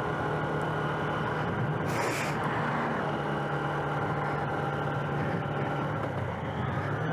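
Motorcycle engine running steadily under way, with wind noise on the microphone. A short hiss cuts in about two seconds in.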